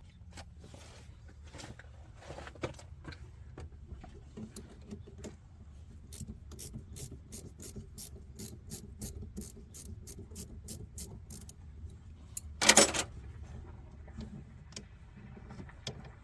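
Hand tools being worked on a car's fuel line: scattered clicks, then a steady run of sharp clicks about three a second for some five seconds. Near the end comes one loud, brief clatter.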